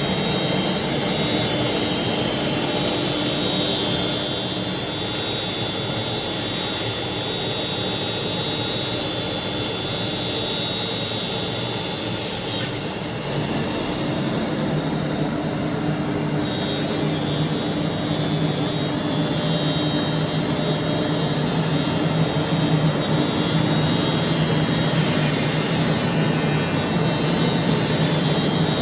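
CNC machine running: a steady mechanical noise with a constant whine, shifting in tone a little about halfway through.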